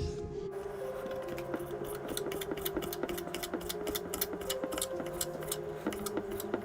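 Kitchen knife dicing a raw tailor fillet on a cutting board: a run of quick, fairly even taps of the blade on the board, starting about half a second in.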